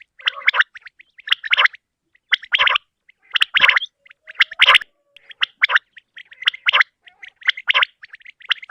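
Common quail calling over and over: a short raspy phrase of quick notes repeated about once a second, with brief silences between.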